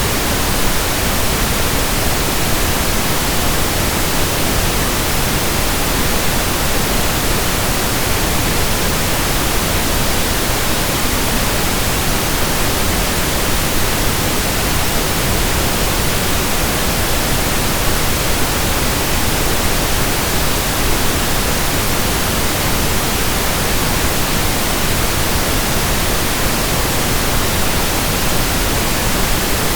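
Steady pink noise: an even, unchanging hiss spread across the whole range, with more weight toward the low end than white noise.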